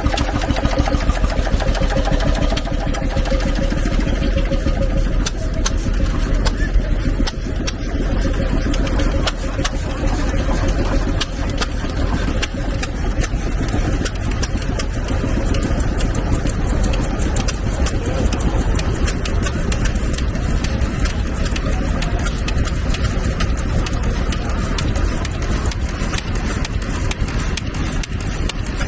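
Vintage stationary engine running steadily, with a fast, even beat of firing strokes.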